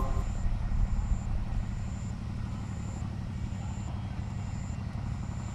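A low steady rumble, like a vehicle running, with a short high-pitched beep repeating about once a second.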